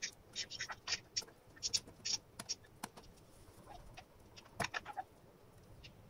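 Short, high chirps of small birds, bunched in the first two seconds and again near five seconds. A sharper knock about four and a half seconds in comes from small metal and plastic handling on the motherboard.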